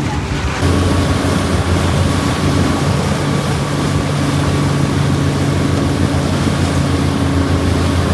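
Motorboat engine running with a steady low drone over a rush of wind and water; the sound steps up and grows louder about half a second in.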